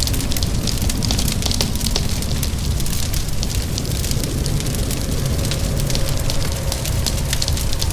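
Wood fire crackling, with many small irregular pops over a steady low rumble, mixed with a steady hiss of rain.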